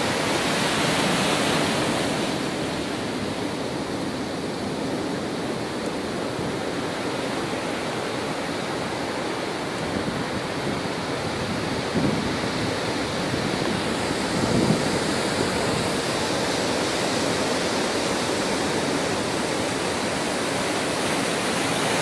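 Steady rushing water, an even noise with no pauses, with two brief low bumps about twelve and fifteen seconds in.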